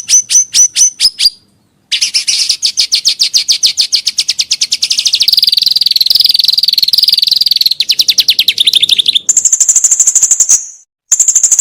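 A songbird singing fast chattering trills of repeated high notes, some rough and buzzy, others a clear, steady high whistle near the end. The song comes in segments that stop and restart abruptly.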